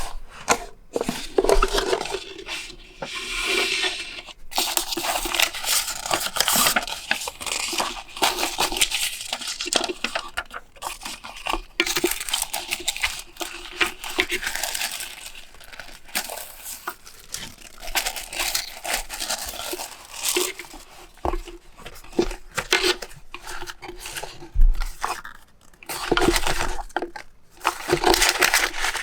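Paper being handled for journal decorating: rustling, crinkling and tearing sounds in stretches broken by short pauses, with small taps and clicks.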